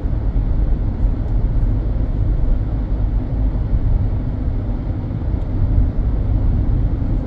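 Steady low road and wind rumble inside the cabin of a moving car, wavering slightly in loudness, with strong winds blowing outside.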